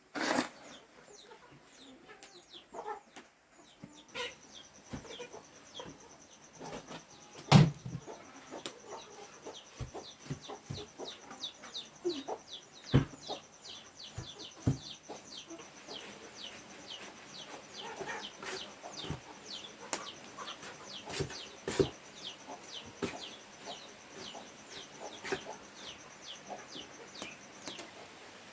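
Chickens calling in many short, falling chirps, one after another, with scattered knocks, the loudest about seven and a half seconds in. A steady high thin tone runs through most of it.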